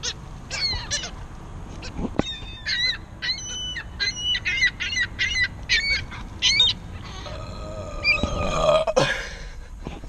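Seagulls crying: many short, harsh calls in quick succession, some overlapping, for about seven seconds. A rushing noise follows about eight seconds in.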